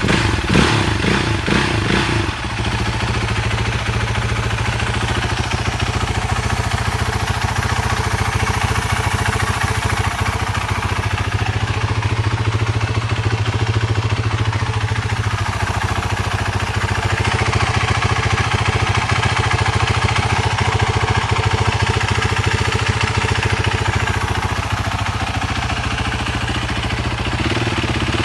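BMW G450X's 450 cc single-cylinder four-stroke engine idling steadily, with a few short throttle blips in the first two seconds.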